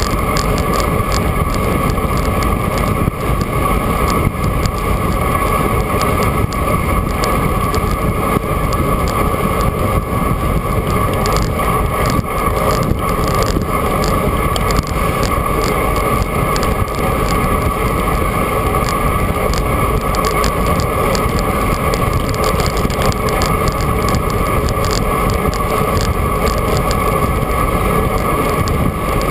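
Steady rush of wind on a GoPro's microphone, with tyre and road noise from a bicycle riding at speed.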